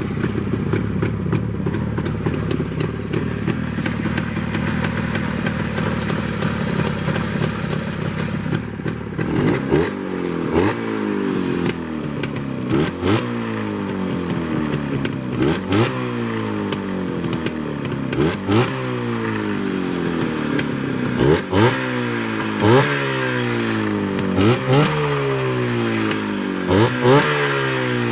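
Rebuilt motorcycle engine running at a steady idle, then from about nine seconds in blipped repeatedly, every two to three seconds. Each blip revs up quickly and falls away slowly back toward idle, showing that the engine now runs and picks up on the throttle.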